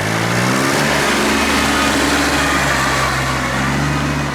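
Tractor engine revving up over about the first second, then running steadily at high revs.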